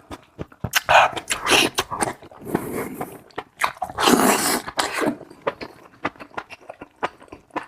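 Close-miked mouth sounds of someone chewing tripe: a run of wet clicks and smacks, with three longer noisy bursts, the loudest about four seconds in.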